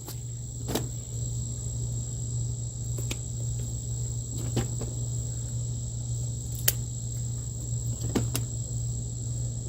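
Crickets trilling in a steady, unbroken high tone, over a steady low hum, with a few sharp clicks scattered through.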